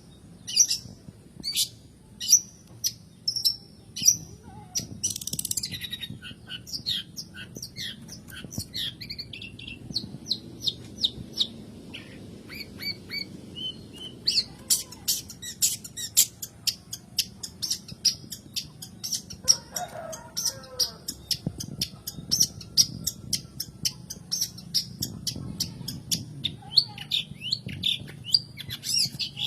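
Long-tailed shrike (cendet/pentet) calling in rapid series of short, sharp, high chattering notes that grow faster and denser about halfway through. A brief lower, rougher call comes about twenty seconds in.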